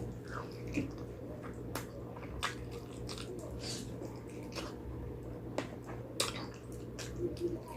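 Close-miked wet chewing and mouth smacking of a person eating spicy pig trotters, with sharp clicks every second or so over a steady low hum.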